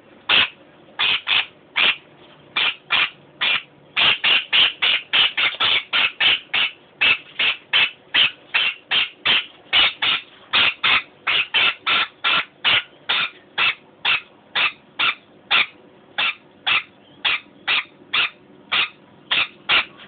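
Pet bird calling with a steady run of short, high chirps, about two to three a second, coming faster around four to six seconds in.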